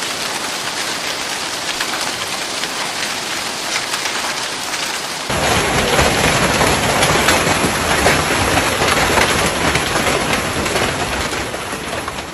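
Heavy storm downpour pattering steadily on surfaces. About five seconds in it switches abruptly to a louder, fuller downpour with a deeper rumble underneath.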